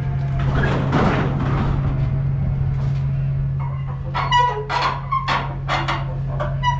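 Chickens clucking, a run of short calls in the second half, over an engine idling with a steady low hum.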